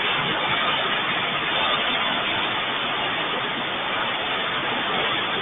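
Rain falling steadily, an even hiss with no distinct events.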